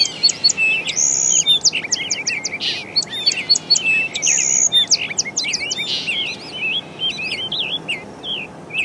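Many small birds chirping and singing together, a dense run of short overlapping calls and whistled notes over steady faint background noise.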